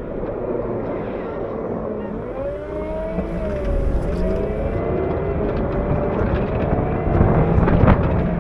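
Diesel engine of a Cat 908 compact wheel loader running under load, its pitch rising a couple of seconds in and then holding. Sharp knocks and clatter come in near the end.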